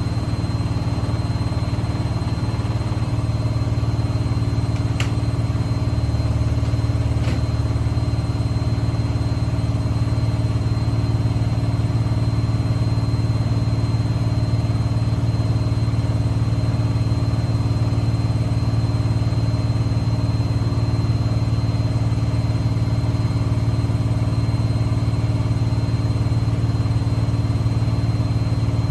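Privileg washing machine in its spin cycle, the drum turning at a steady speed with a constant low hum and a thin high whine. Two faint ticks come about five and seven seconds in.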